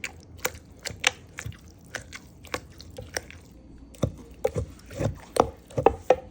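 Irregular knocks and clicks from food being worked in the kitchen, about two a second, some with a dull thud underneath and a wet quality, coming thicker and louder over the last two seconds.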